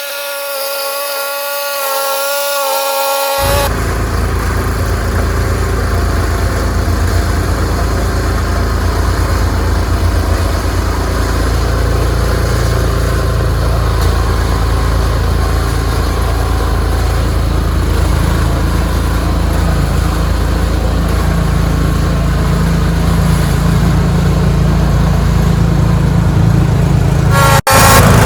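Ariens 624E snowblower's small engine running steadily. The first few seconds hold a thinner, steady whine with no bass, which changes abruptly to the full, low engine sound.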